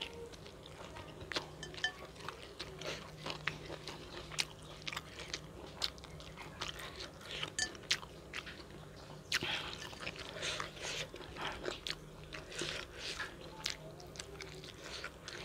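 Close-miked chewing of food, with irregular wet mouth clicks and crunches, which get denser and louder about two thirds of the way through.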